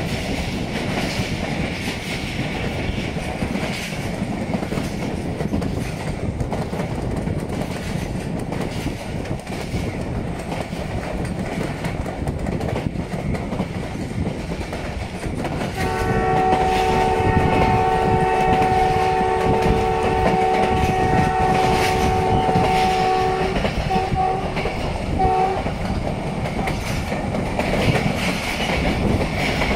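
Passenger train running, with a steady rumble and clickety-clack of wheels over the rails. About halfway through, the ZCU20 diesel-electric locomotive's multi-tone horn sounds one long blast of about seven seconds, followed by two short toots.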